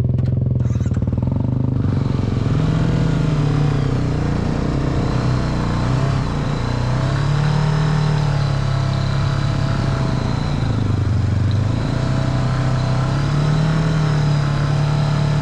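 Motorcycle engine running while the bike is ridden, its note rising and falling several times with the throttle over a steady rush of noise.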